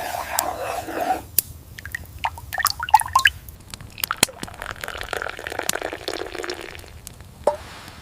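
Liquid dripping and sloshing, with scattered small clicks and knocks.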